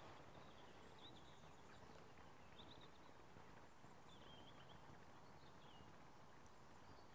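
Near silence: quiet outdoor ambience with a low steady rumble, and four faint short bird chirps about a second and a half apart.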